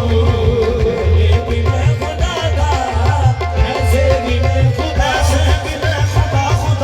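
Qawwali music: tabla beating a steady rhythm under a wavering melodic line, played between sung verses.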